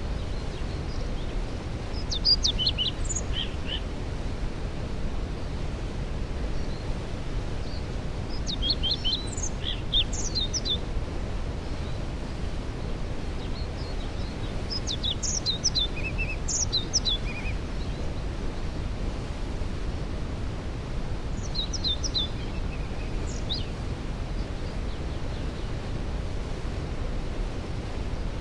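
A songbird singing short phrases of quick high notes, about every six seconds, over the steady rush of a waterfall.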